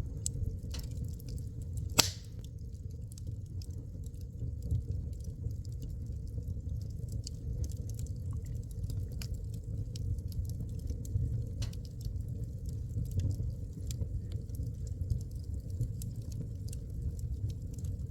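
Wood fire burning in a fireplace, with a low rumble of flames and irregular crackles and pops from the burning wood, one sharp pop about two seconds in.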